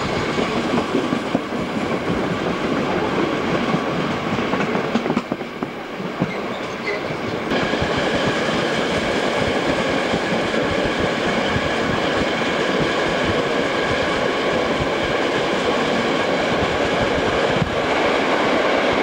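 Passenger coaches of a steam-hauled train running along the line, heard from an open coach window: steady rolling noise with wheels clattering over the rail joints. It grows louder about seven seconds in, and again as the train runs into a tunnel near the end.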